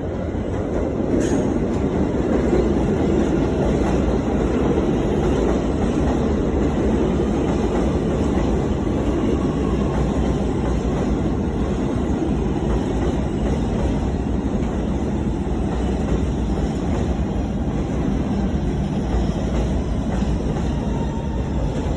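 New York City Subway R211A train running through a station without stopping, a loud, steady noise of wheels on rail.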